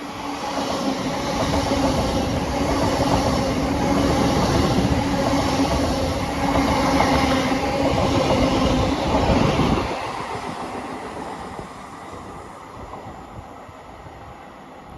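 Electric intercity trains passing at speed: a loud rush of wheel and air noise with a steady hum, which drops off sharply about ten seconds in and then fades away.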